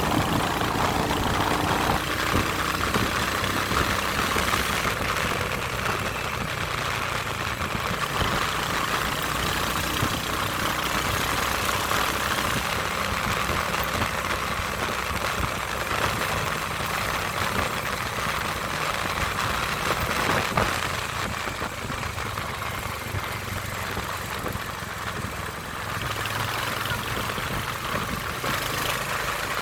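Royal Enfield Hunter 350's single-cylinder engine running steadily.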